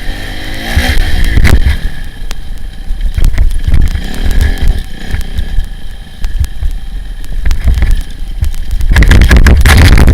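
Kawasaki dirt bike engine revving up and easing off several times while riding a bumpy trail, with many sharp knocks and rough wind noise on a helmet-mounted mic. Near the end a loud rough stretch of noise takes over.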